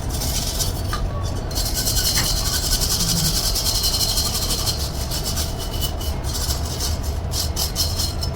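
Rasping, scraping noise made of many fast strokes, over a steady low hum. The scraping starts about a second and a half in and eases off near the end.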